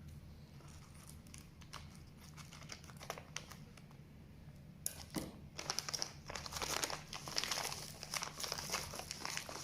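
Packaging crinkling and rustling as a parcel is unwrapped by hand: sparse crackles at first, then busier and louder from about halfway.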